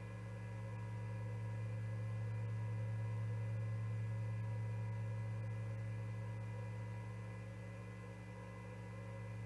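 Steady low electrical hum with several fainter steady tones above it, over light hiss, slowly swelling and easing in loudness.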